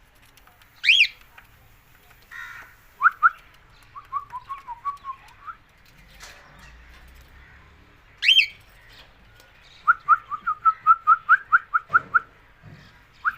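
A parrot calling: two loud, sharply rising whistled calls, one about a second in and one near the middle, and between them runs of short, quick chirps at about five a second.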